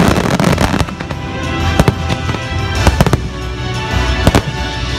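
Fireworks shells bursting, with a handful of sharp reports spread across the few seconds, over the show's music playing on loudspeakers.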